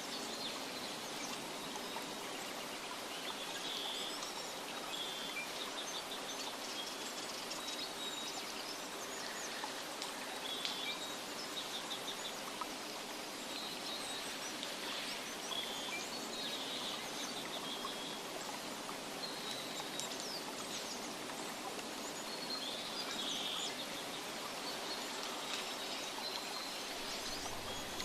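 Nature ambience: a steady hiss of running water, with small birds chirping in short trills that come again every few seconds.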